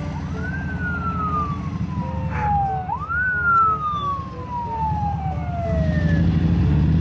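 Police siren wailing twice, each cycle a quick rise in pitch then a long slow fall. Underneath, a motorcycle engine runs steadily, getting louder near the end.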